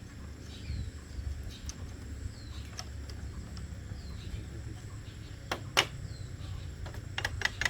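A few sharp knocks, the loudest about six seconds in, then a quick run of clicks near the end, over a low steady rumble.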